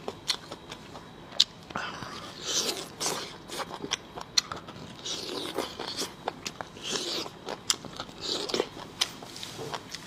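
Close-miked eating: biting and chewing food, with many sharp wet clicks and smacks of the mouth coming every half second or so.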